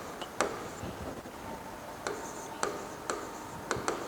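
Pen tapping and scratching on a writing surface as someone writes, giving about half a dozen light, irregular ticks.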